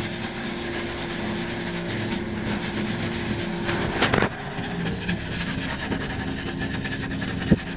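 Soft kitchen sponge rubbing along a guadua bamboo pole to clean the fuzz off it, a steady scrubbing, with a knock about four seconds in and a smaller one near the end.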